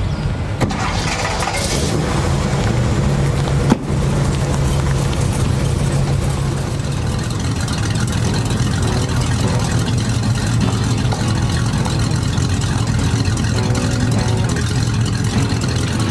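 Hot rod car engines running steadily, with a sharp knock about four seconds in.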